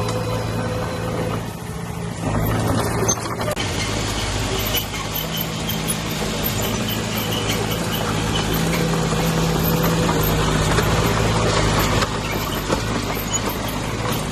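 Diesel engine of heavy earthmoving machinery running steadily, with a brief drop in loudness about a second and a half in before it picks up again.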